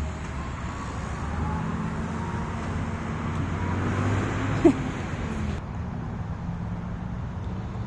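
Steady rumble of road traffic, with one short high squeak just past the middle.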